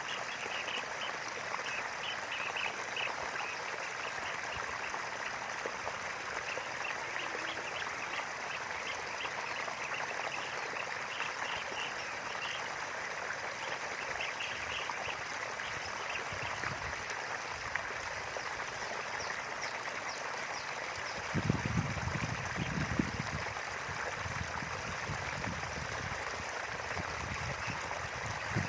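Small river flowing steadily between rice fields, a continuous rush of running water. Rapid high chirps ride over it through the first half, and a few low bumps come in the last third.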